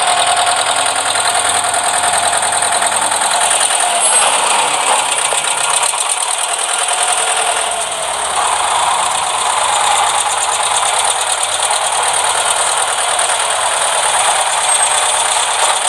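A toy vehicle's small electric motor and plastic gears running steadily, with a fast, continuous rattle.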